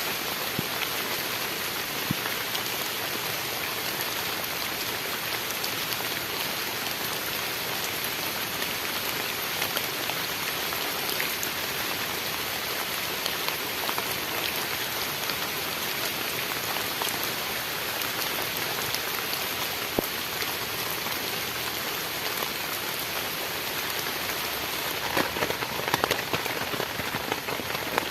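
Heavy rain pouring steadily, a dense hiss of falling water with scattered sharper drop hits. The drop hits grow louder and more frequent near the end.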